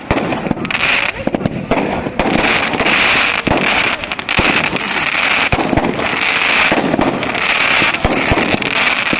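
Fireworks going off: a rapid, irregular string of sharp bangs and crackles over a continuous hiss.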